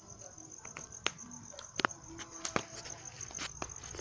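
Crickets chirring steadily in a high, even tone, with a scattering of sharp cracks and pops, about half a dozen, from about a second in.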